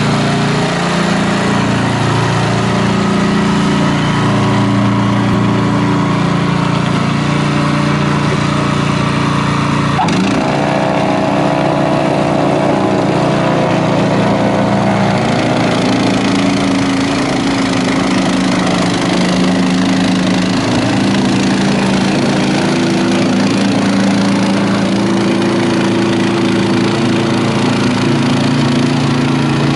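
Honda HSS1332ATD two-stage snowblower's single-cylinder engine running steadily. Its note shifts about ten seconds in, after a sharp click, and again around sixteen seconds, with an added higher whine in between.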